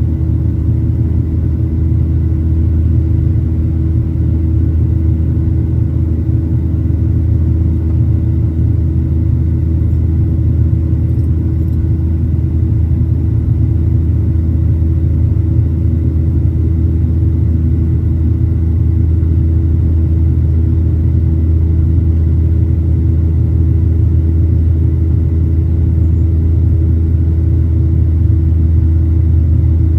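Cabin noise inside a Boeing 737-800: a loud, steady low rumble from its CFM56 jet engines and airflow, with a faint steady whine above it, holding even with no change in power.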